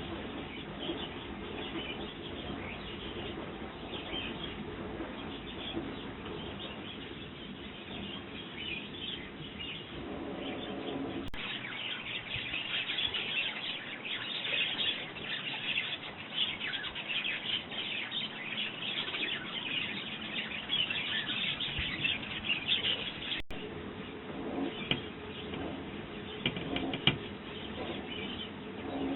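Sparrows chirping and chattering at a garden feeder, many short chirps overlapping. The chirping becomes denser and louder about a third of the way in, then thins abruptly again near the last third.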